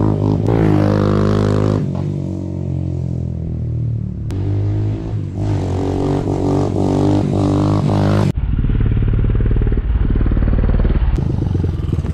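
Honda ATC185s with an XR200 big-bore kit and an aftermarket Amazon exhaust, its single-cylinder four-stroke engine revving hard under acceleration. The pitch climbs and drops with brief dips between pulls. About eight seconds in, the sound switches abruptly to a loud, close, rapid firing rumble.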